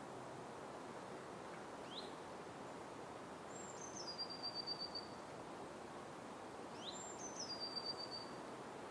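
A songbird sings the same phrase twice: a quick rising note, then a high note that steps down into a rapid trill lasting about a second. Under it runs a steady hiss of forest ambience.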